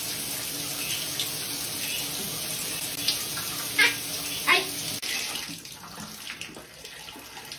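Water running steadily from a tap, with a few short, sharp high sounds about three to four and a half seconds in; the running water gets quieter after about five seconds.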